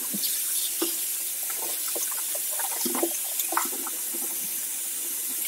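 Running tap water splashing, with scattered light clinks and knocks as a bicycle cassette is washed and handled.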